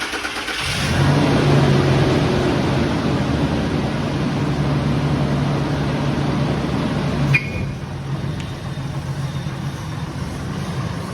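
Pickup truck engine starting: it catches about half a second in and runs at a raised idle. After a sharp click about seven seconds in it settles to a quieter, steady idle.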